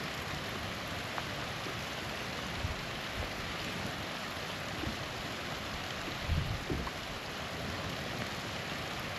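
Small waterfall running with a steady rushing splash. A couple of faint ticks are heard, and there are a few low bumps about six to seven seconds in.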